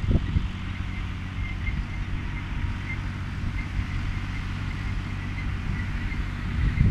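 A John Deere 1030 tractor's three-cylinder diesel engine runs at steady speed with an even low drone, while a faint high steady whine sounds alongside.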